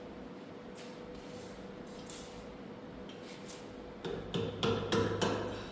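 Hammer striking metal: a few light taps, then a quick run of about six sharp blows in the last second and a half, as a part of the snow blower attachment is knocked loose.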